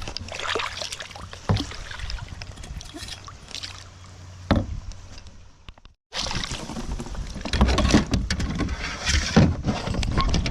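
Water sloshing and splashing with scattered knocks and bumps against a kayak as a fish is handled over the side. A sudden break near the middle, then louder splashing and knocking.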